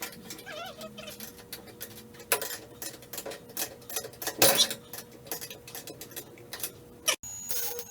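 Irregular clicks and knocks, the loudest about two and a half and four and a half seconds in, with a cat meowing briefly near the start.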